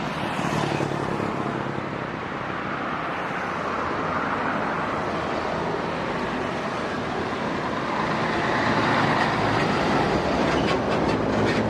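Heavy diesel trucks passing on a road: engine and tyre noise, growing a little louder about two-thirds of the way through, with a few sharp clicks near the end.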